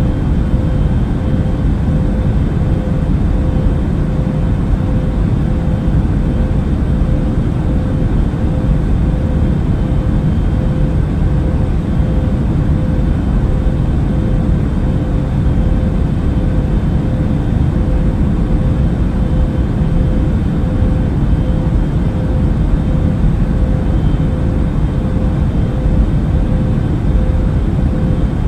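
Airliner cabin noise in flight: a steady, deep rush of engine and air noise with a constant hum running through it.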